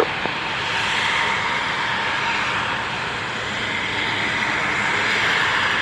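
Fixed-wing aircraft engine running steadily at high power, a continuous rushing sound with a faint steady whine, as an aircraft departs just after its takeoff clearance.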